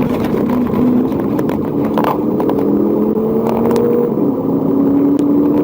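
A car engine pulling hard under acceleration, its pitch climbing slowly over the steady rush of tyre and road noise at high speed.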